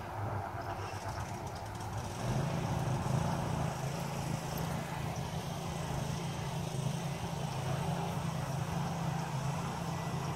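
A motor vehicle engine running steadily, its low hum coming in about two seconds in.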